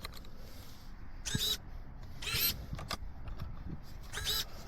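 A bird calling outdoors: three short, high calls about a second or more apart, over low wind rumble on the microphone.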